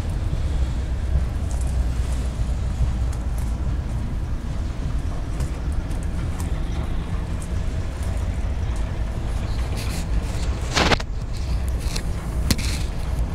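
Freight train of boxcars rolling past, a steady low rumble of wheels on rail with light scattered clicks. A short, loud clatter comes about eleven seconds in.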